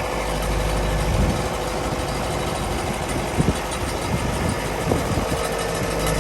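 Farm tractor engine running steadily as it pulls a forage wagon unloading chopped corn silage, with a few short knocks in the middle and a steady whine joining about five seconds in.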